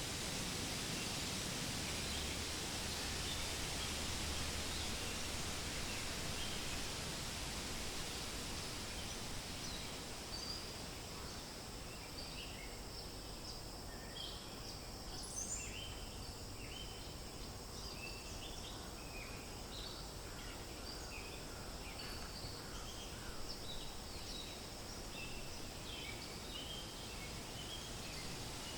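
Wind rustling through forest leaves as a steady hiss, stronger in the first few seconds and easing off. From about ten seconds in, small birds chirp repeatedly in short, quick notes over it.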